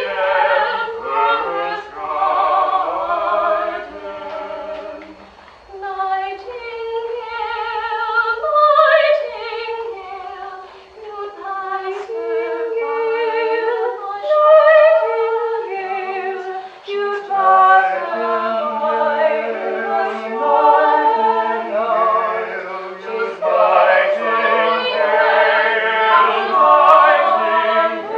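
Eight mixed voices, men and women, singing a round in operetta style, several vocal lines overlapping as the voices enter in turn. The sound dips briefly twice in the first half and builds fuller and louder toward the end.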